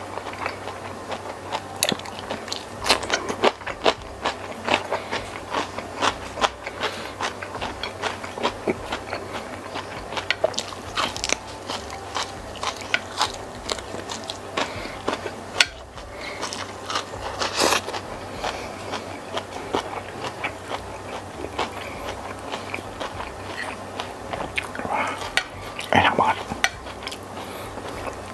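Close-miked eating: chewing and lip smacking with many sharp crunches from biting raw greens such as kenikir leaves, loudest in short clusters now and then.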